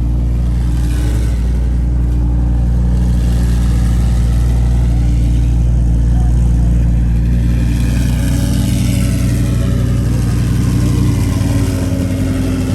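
A car engine running steadily and loudly, its pitch shifting about eleven seconds in.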